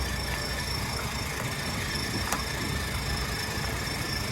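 Steady low machine hum with faint steady high tones, and a single light click about two seconds in.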